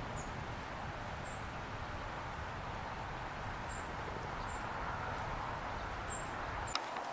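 Small songbirds giving short, high-pitched chip calls, about six spread over several seconds, over a steady outdoor background hiss. A sharp click near the end, where the low background rumble suddenly stops.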